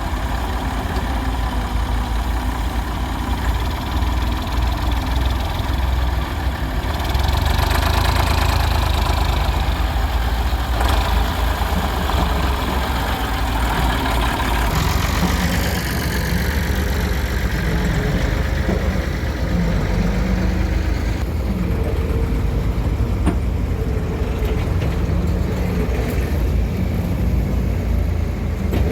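Diesel engine of a Hyundai Robex 1300W wheeled excavator running steadily as it works, growing louder for a few seconds about seven seconds in.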